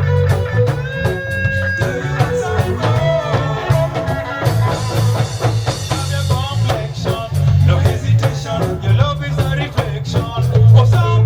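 Reggae band playing a lovers rock tune: a heavy, steady bass line under drums and a rhythmic electric guitar, with a melody line weaving over it.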